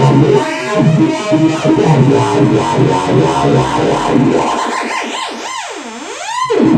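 Modular synthesizer patch, an FM oscillator run through distortion, echo and a filter, playing a busy, buzzing sequenced line. About four and a half seconds in it thins to one sweeping tone that swoops down and then back up.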